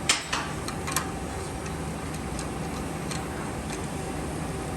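A few light metallic clicks and ticks of small injector parts and tools being handled on a workbench, sharpest in the first second, then sparse faint ticks over a steady low shop hum.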